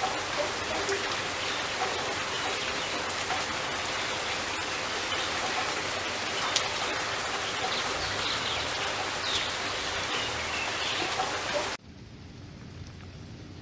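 Steady heavy rain, a dense hiss with scattered drops and splashes and one sharp drip about halfway through. About twelve seconds in it cuts suddenly to quieter, duller rain.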